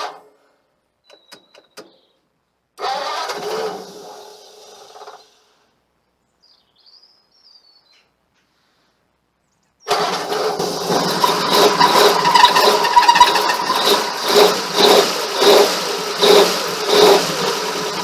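Ford flathead engine starting: a few clicks and a brief crank, then it catches about ten seconds in and runs, blipped up in a quick series of revs near the end.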